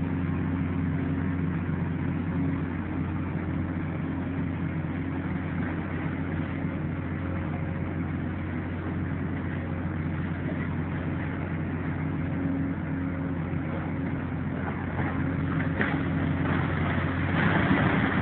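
Heavy diesel engine of demolition machinery running steadily. A louder, rougher noise with clicks rises near the end.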